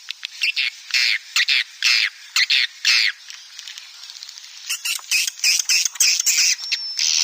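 Swiftlets chattering, as in a swiftlet-house lure recording: fast runs of dry clicks and buzzy chirps from several birds overlapping, with a thin high whistle coming in near the end.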